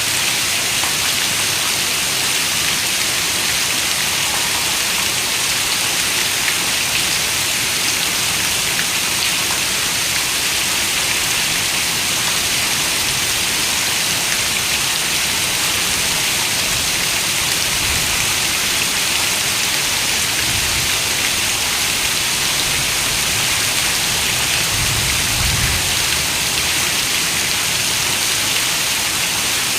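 Steady rain falling, an even hiss with no break, and a few faint low rumbles underneath in the second half.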